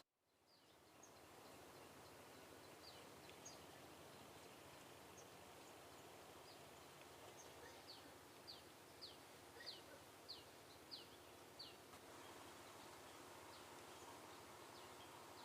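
Faint outdoor ambience with a bird calling: scattered high chirps, and about halfway through a run of about seven short downward-sweeping notes, roughly one every half second.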